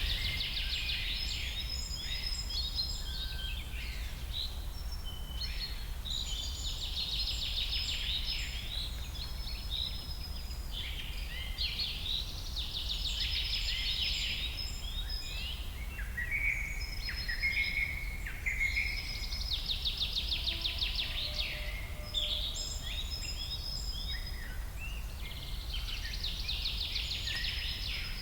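Several birds singing and calling at once in a dense, overlapping chorus of chirps and trills, over a steady low rumble.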